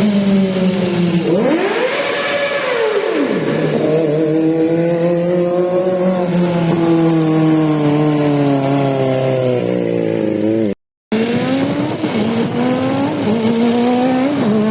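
Kawasaki ZX-25R's 249 cc inline-four engine running at high revs. Its pitch climbs sharply and then falls away about two seconds in, then holds steadier with a few short dips near the end. The sound cuts out briefly about eleven seconds in.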